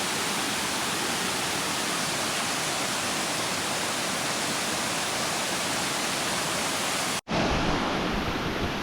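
Waterfall rushing with a steady, even roar of falling water. About seven seconds in, the sound breaks off for an instant and comes back with a heavier low rumble.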